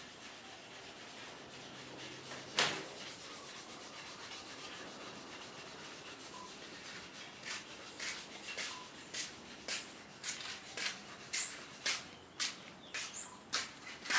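Hand work on wood: a steady sanding or rubbing hiss, with one sharp knock about two and a half seconds in. From about halfway, a run of short sharp strokes follows, roughly two a second.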